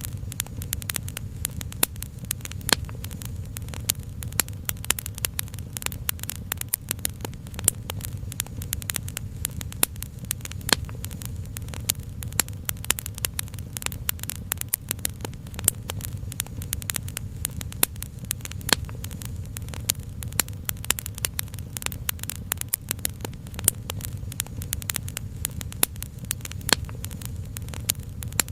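Wood fire crackling: many small, irregular sharp pops over a steady low rumble.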